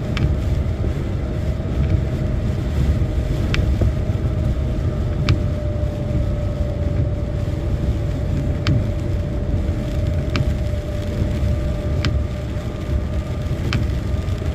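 Lorry cab while driving: steady engine and road drone with a constant hum. A sharp click comes about every one and a half to two seconds.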